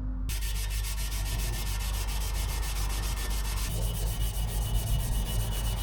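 Coarse red Scotch-Brite abrasive pad scrubbing across a steel motorcycle exhaust pipe in rapid, even back-and-forth strokes, a steady scratchy hiss that starts suddenly just after the opening.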